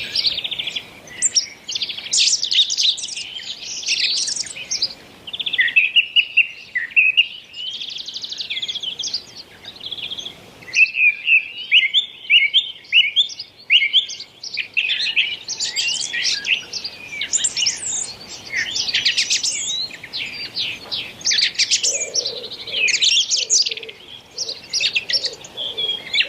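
A songbird singing a long, varied song of fast chirps, trills and whistled glides, with only short pauses.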